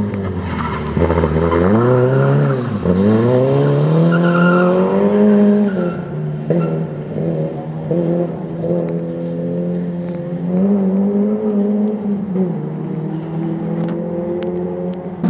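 Peugeot 106 rally car engine accelerating hard, its pitch climbing and then dropping sharply at gear changes about 3 and 6 seconds in, then rising and falling as the driver lifts off and accelerates again through the chicane.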